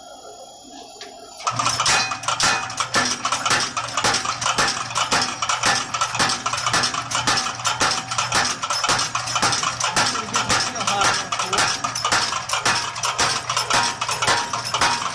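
Power hammer starting up about a second and a half in and striking hot steel in a rapid, even run of metallic blows over a steady motor hum, drawing out and evening the thickness of a forge-welded bar.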